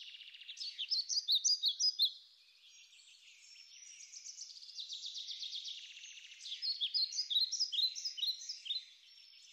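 Small birds chirping and trilling: quick high chirps and short falling notes, loudest in two spells, about a second in and again around seven seconds in.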